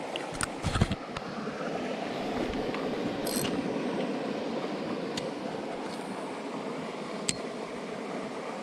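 Steady rushing of a jungle stream's water. A few sharp knocks come in the first second, with single clicks later on.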